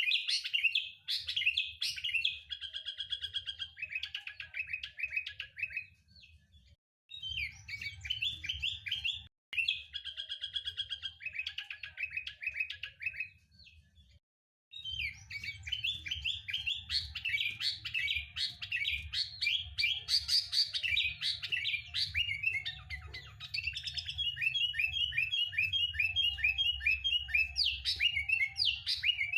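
Sooty-headed bulbul (kutilang) singing and chattering in rapid strings of bright chirps and short trills. The song breaks off briefly a few times, and near the end there is a fast run of evenly repeated notes. A low hum runs underneath.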